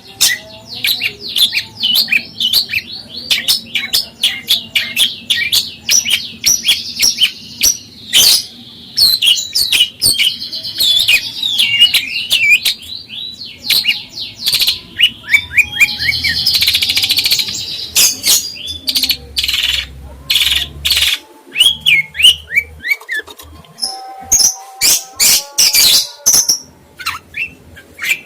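Songbird singing a fast, varied string of high chirps, trills and whistled glides, with a buzzy stretch around the middle.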